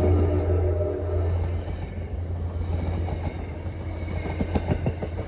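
A train horn's chord trails off in the first second, leaving a passing train: a steady low rumble, with a quick run of wheel clicks over rail joints around four to five seconds in.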